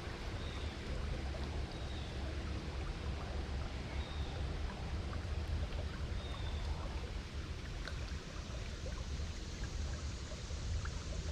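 Creek water running steadily, with a few faint short high chirps over it.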